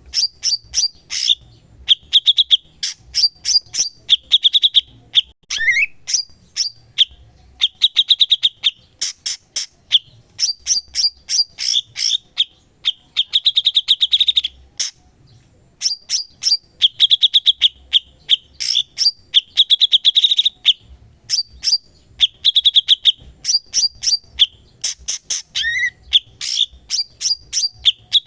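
Cucak cungkok singing in full song: repeated phrases of rapid chattering trills and sharp high notes, broken by short pauses, with a rising slurred note about six seconds in and again near the end.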